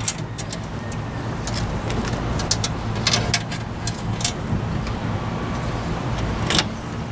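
A motor vehicle engine idling steadily, with a dozen or so sharp clicks and taps scattered over it.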